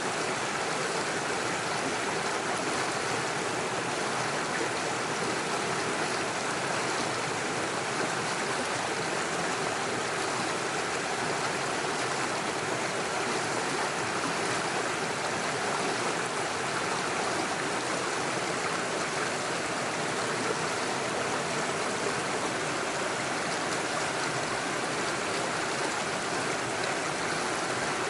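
Small rocky forest stream rushing and splashing over stones and little waterfalls in a steady, even flow.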